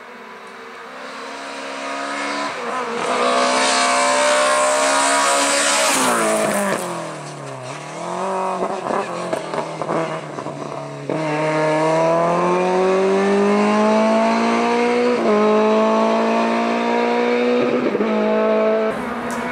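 Classic Lada sedan rally car's four-cylinder engine driven hard, growing louder as it comes closer. About six seconds in its pitch falls away as the car brakes, and it runs unevenly through a tyre chicane. From about eleven seconds in it revs up again, with gear changes near fifteen and nineteen seconds.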